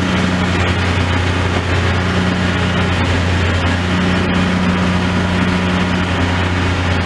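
Demolition excavator's diesel engine running steadily, a deep even hum with no clear impacts.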